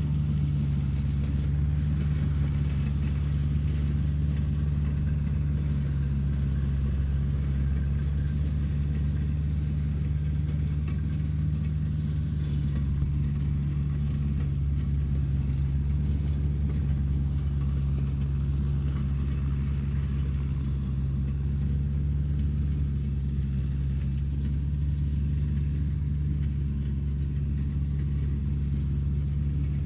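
Tractor engine running at a steady speed: a constant low drone that does not rise or fall.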